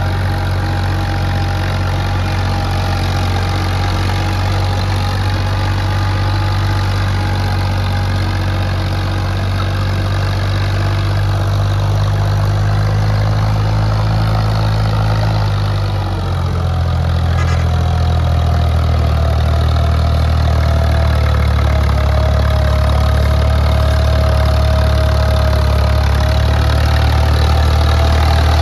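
Ford 3610's three-cylinder diesel engine running steadily under heavy load, pulling a fully loaded sugarcane trailer. The engine note shifts about halfway through and then holds steady.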